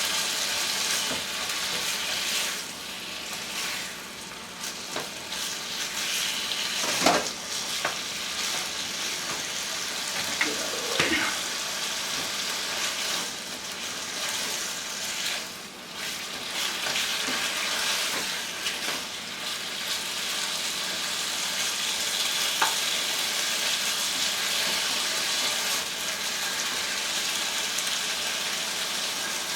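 Sliced chicken sizzling steadily as it fries in oil in a skillet, nearly cooked through. A few sharper knocks or scrapes from stirring it with a utensil, mainly about a quarter and a third of the way in.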